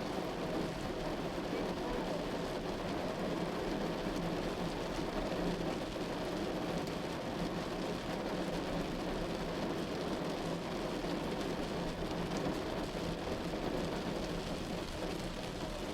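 Steady rain falling on a moving car, blended with its tyre and road noise.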